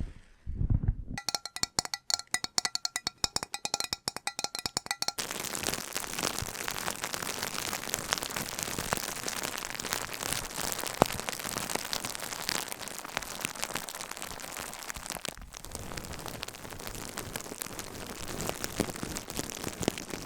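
ASMR trigger sounds, no voice. A few soft low thuds, then rapid even tapping or clicking with a faint ringing tone for about four seconds. After that, a continuous dense crackling, like rustling or scratching close to the microphone, with a brief break about three quarters of the way through.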